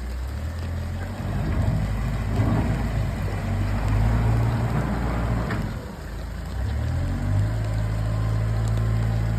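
Heavy engine of cleanup machinery running with a steady low hum. It grows louder and rougher for a few seconds in the middle, dips briefly, then settles back to a steady run.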